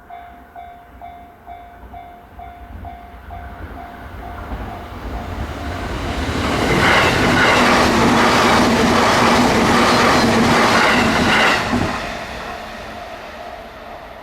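A Japanese level-crossing warning bell rings at a steady clang of about two and a half strikes a second. A train then comes through the crossing: it grows louder, passes loudly for about five seconds with the wheels clicking over the rail joints and drowning out the bell, then drops away quickly, and the bell can be heard again.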